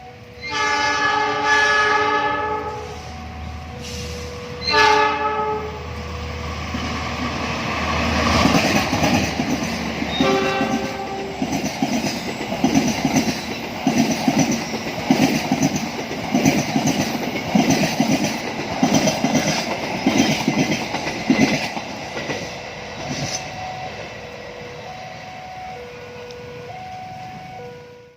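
A train horn sounds three times, one long blast then two short ones, and the train then passes close by with its wheels clattering in a steady rhythm over the rail joints. A level-crossing warning signal alternates between two tones, plain near the start and again after the train has gone.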